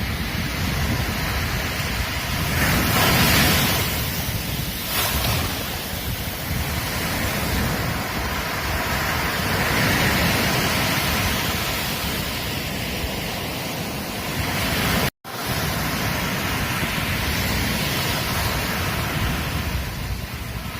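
Ocean surf washing on a beach, a continuous rush of water that swells and eases as waves break, the loudest about three seconds in. Low wind rumble on the microphone lies under it, and the sound cuts out for an instant about fifteen seconds in.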